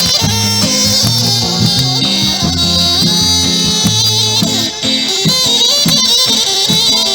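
Traditional Balkan folk music led by a gajde bagpipe, its high, wavering melody held over steady low tones, with percussive strokes underneath.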